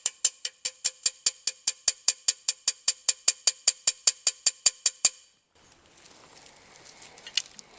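Small dent hammer tapping quickly and lightly on a brass trombone slide tube held on a steel dent rod, about five ringing metallic taps a second, knocking down high spots on the collapsed tube. The tapping stops abruptly about five seconds in, followed by a few faint clicks.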